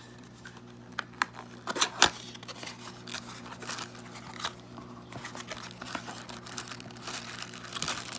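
Plastic packaging crinkling and rustling as a power supply is unwrapped, with a few louder sharp knocks and snaps in the first two seconds.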